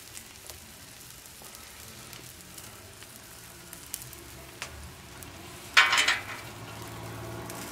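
Pancakes and eggs sizzling steadily on a Royal Gourmet 36-inch flat-top griddle, with a few faint ticks and a short, louder burst of noise about six seconds in.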